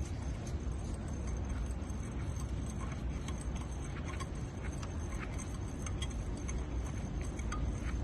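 Engine running with a steady low rumble, with irregular light ticks and clicks over it.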